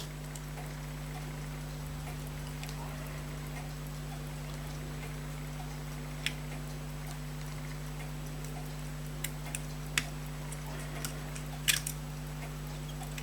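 A steady low electrical hum with a few scattered small, sharp clicks, about six seconds in, around nine to ten seconds and near the end: small watchmaker's tools and parts knocking against a pocket watch case and movement.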